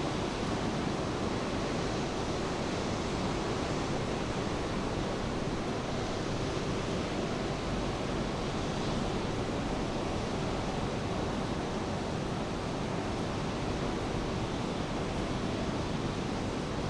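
Steady rain falling, an even, continuous hiss with no lulls or surges.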